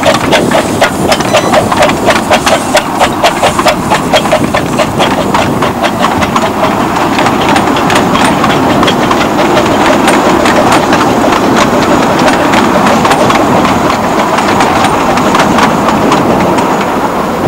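Miniature railway train running. For the first few seconds there is a fast, even beat of several sharp strokes a second, which blends into a steady rushing rumble.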